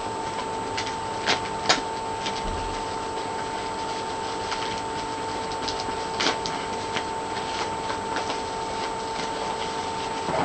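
Scattered small clicks and rubbing from an action figure being handled out of its packaging, with two sharper clicks a little over a second in. Under it is a steady electrical whine in several pitches.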